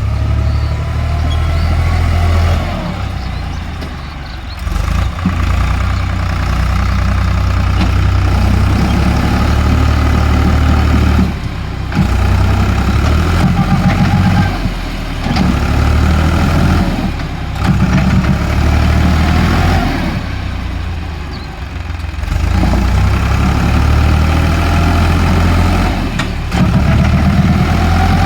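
Eicher 5660 tractor's diesel engine running, its pitch rising and falling with the throttle. The sound breaks off abruptly several times.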